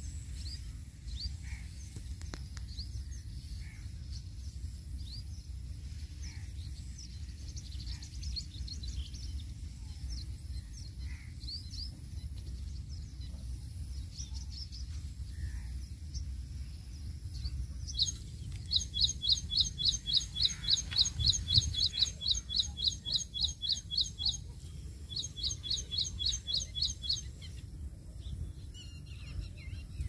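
Birds chirping outdoors in scattered short calls; partway through, one bird starts a loud, fast series of repeated notes, about four a second, pauses briefly and resumes for a couple of seconds. A low steady background rumble runs underneath.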